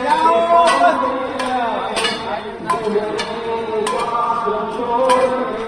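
Devotional singing: a voice holding long, wavering melodic notes over regular percussion strikes.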